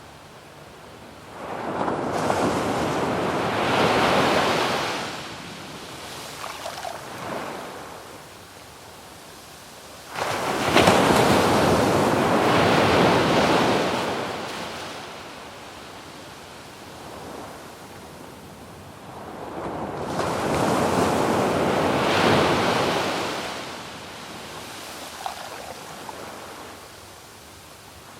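Sea waves breaking on a sandy beach, three big surges about ten seconds apart, each washing up for several seconds before ebbing into a quieter hiss. Wind on the microphone is faintly mixed in.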